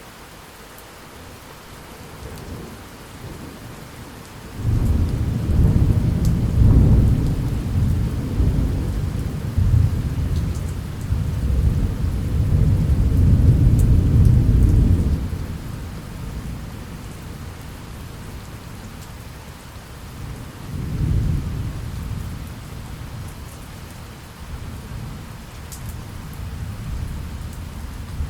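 Steady rain with rolling thunder: a long, loud, deep rumble starts suddenly about five seconds in and runs for some ten seconds before dying away, then a shorter, weaker rumble comes near the end.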